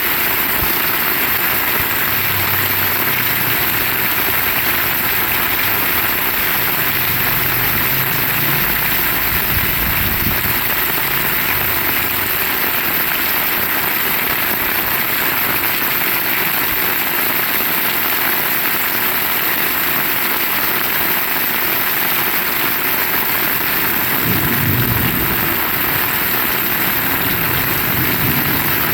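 Heavy rain falling steadily as a dense, even hiss. A few brief low rumbles sit underneath.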